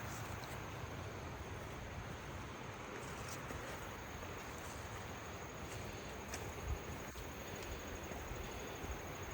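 Outdoor ambience: a steady high insect trill over an even rushing hiss and a low rumble, with a few faint clicks.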